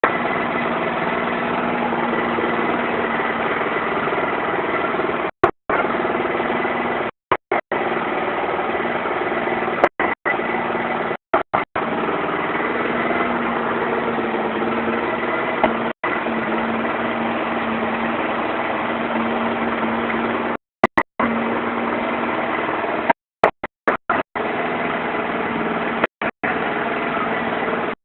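Motorcycle engine idling steadily, the sound cutting out briefly several times.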